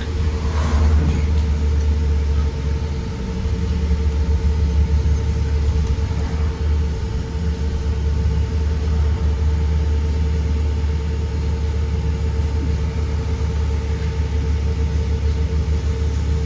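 Blue Bird Vision school bus heard from inside while under way: a steady low rumble with a constant hum above it.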